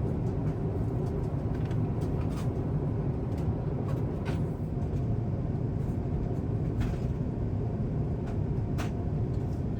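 Steady low cabin roar of an Airbus A350-1000 in flight, engine and airflow noise heard from inside the cabin, with a few faint clicks.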